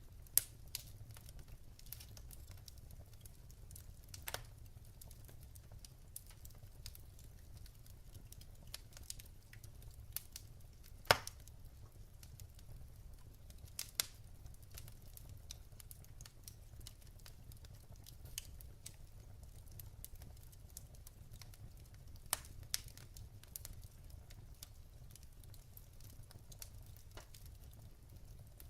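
Wood fire burning in a fireplace, crackling: scattered sharp pops and snaps over a low steady rumble, the loudest pop about eleven seconds in.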